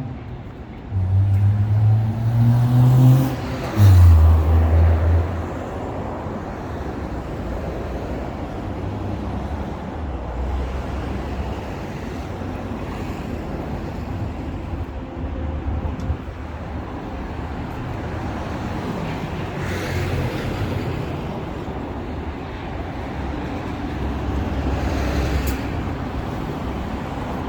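Road traffic on a city street: over the first few seconds a motor vehicle accelerates close by, its engine note rising, then the steady noise of passing cars continues.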